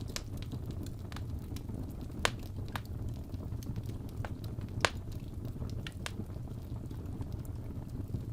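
Wood fire in a fireplace crackling over a steady low rumble, with scattered small snaps and two louder pops a little over two seconds and about five seconds in.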